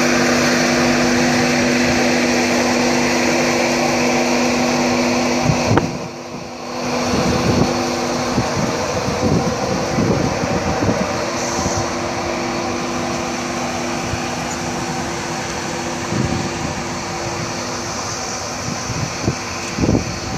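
Steady mechanical hum and hiss of a train at the station, with a few low steady tones over it. About six seconds in the sound drops sharply for under a second, then the hum carries on slightly quieter with scattered low thumps.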